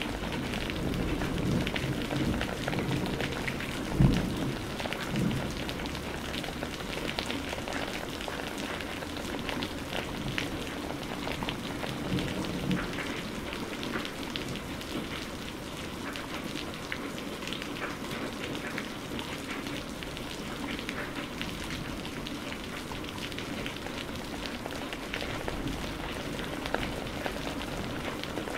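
Steady rain, with many separate drops striking a surface. A low rumble of thunder runs through the first few seconds, with a sharp loud crack about four seconds in and a softer rumble again around twelve seconds.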